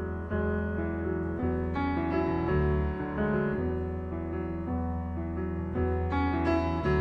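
Solo piano playing: a low bass note held under changing chords, with new notes struck every half second or so.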